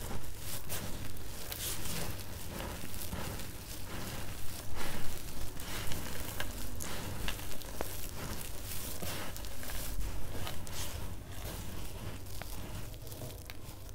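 Knife cutting into soap: a rapid, irregular run of crisp crackling and crunching cuts, played at double speed.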